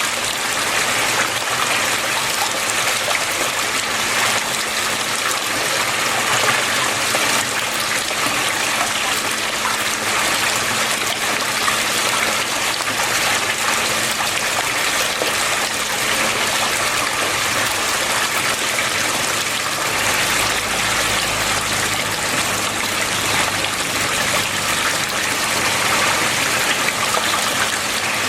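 Water flowing and trickling steadily, an even rushing splash.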